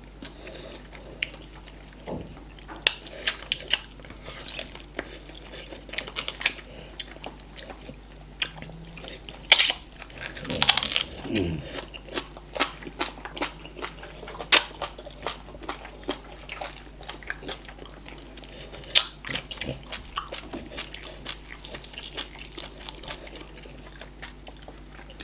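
Close-miked chewing of fufu, okra soup and meat, with frequent sharp clicks. A brief vocal sound falls in pitch about ten to eleven seconds in.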